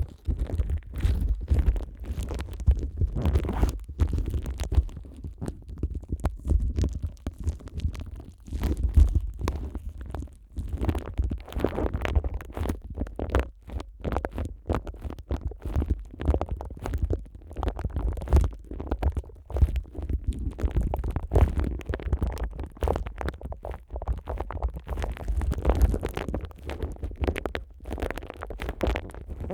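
Plastic wrap stretched over a Neumann KU100 dummy-head microphone being rubbed and pressed by rubber-gloved hands. It makes a continuous close crinkling and rustling full of small crackles, over a deep handling rumble from the wrap being pushed against the microphone.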